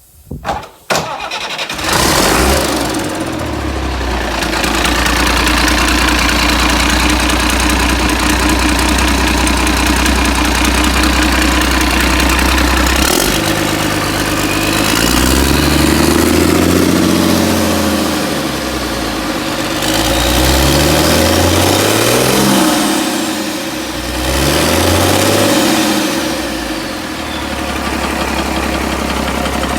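Mercedes-Benz OM366LA inline-six turbodiesel starting after a short crank and settling into a steady idle. It is then revved up and let back down three times before returning to idle.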